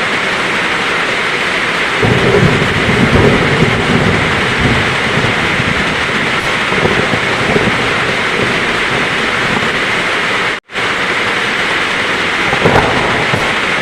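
Heavy rain falling in a steady downpour. A low roll of thunder swells about two seconds in and dies away over a few seconds. About ten seconds in, the sound cuts out for a split second.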